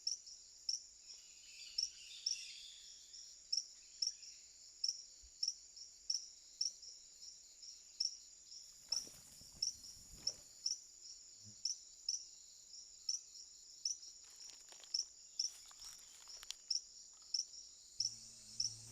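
Rainforest insects calling: a steady high-pitched trill with a sharper chirp pulsing about five times every two seconds. A brief soft rustling noise comes about nine seconds in.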